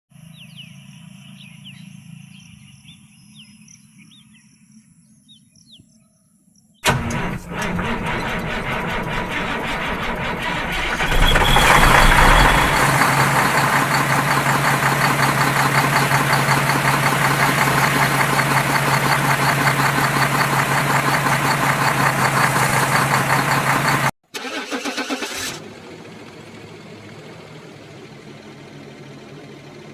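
An engine-like running sound starts abruptly about seven seconds in and grows louder, with a steady low drone. It breaks off briefly near the end, then settles to a quieter steady hum. Faint high chirps come before it starts.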